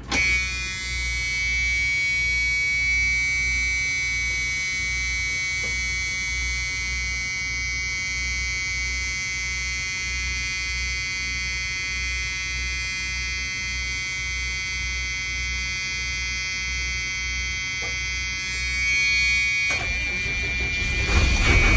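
Cummins 5.9 diesel of a Freightliner FS65 school bus running at idle just after a cold start, with a steady high warning buzzer sounding over the engine that stops about 20 seconds in.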